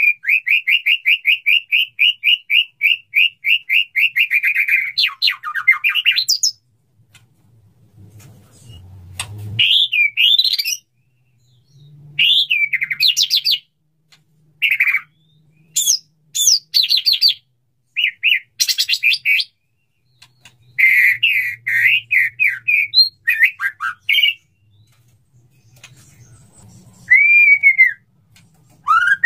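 Male white-rumped shama singing its courtship song to a female: a fast run of rapidly repeated notes for about six seconds, then varied sweeping whistles and chattering phrases separated by short pauses.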